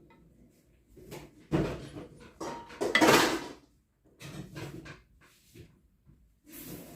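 Hard objects clattering and scraping as they are handled, in several bursts, the loudest a longer scrape about three seconds in.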